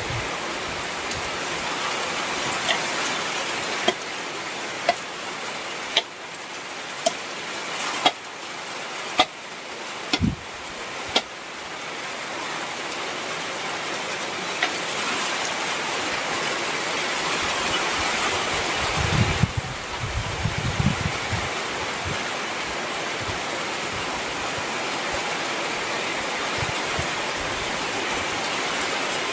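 Heavy rain falling steadily, with a run of sharp single drops knocking on a hard surface about once a second in the first third. A brief low rumble comes a little past the middle.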